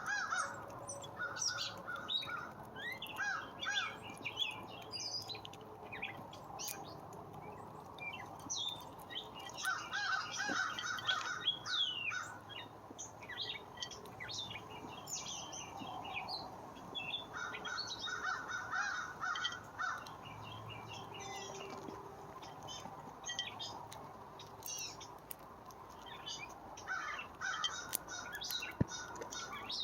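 Wild birds chirping and calling, short high chirps and glides throughout, with four bouts of a harsher, lower repeated call.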